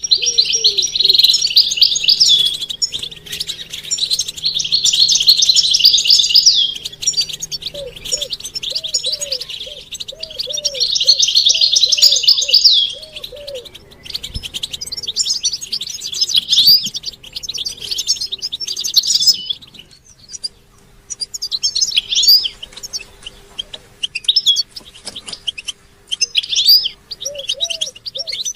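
European goldfinches singing and twittering in fast, chattering phrases: long unbroken runs in the first half, then shorter phrases with gaps. These are the mating and readiness calls that set a male goldfinch singing. A lower repeated note pulses underneath at times.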